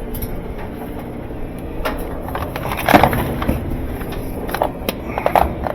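Scattered knocks, clicks and scrapes of hand tools and parts being worked on during washing machine disassembly, the loudest knock about three seconds in and a quick cluster near the end.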